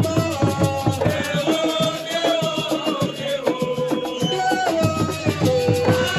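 Assiko music: fast, dense hand-drum strokes with shaken rattles under a melody line of held notes that step up and down.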